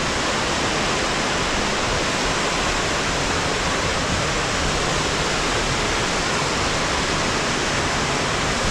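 Waterfall and cascading water rushing in a steady, unbroken roar of white noise.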